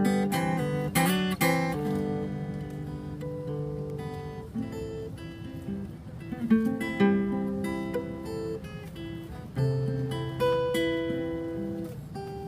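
Acoustic guitar played fingerstyle: a picked melody over ringing bass notes, with a few sharp strummed chords, the loudest about six seconds in.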